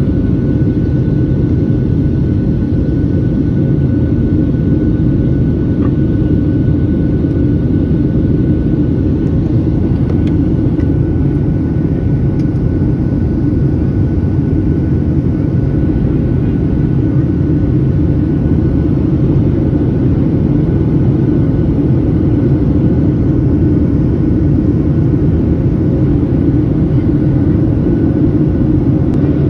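Steady cabin noise inside a Boeing 737-700: a continuous deep rumble of its CFM56-7B jet engines and airflow, with a faint thin whine held at one pitch.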